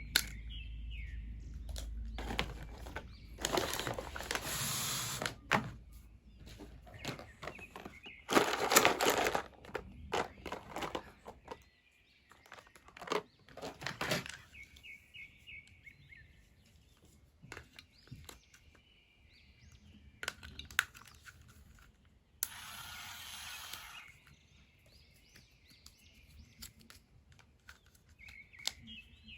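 Toy packaging being handled: bursts of plastic and cardboard rustling and scattered clicks, with runs of short high chirps in between.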